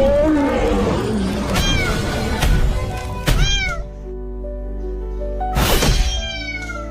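A cat meowing a few times, short arching calls, over background music.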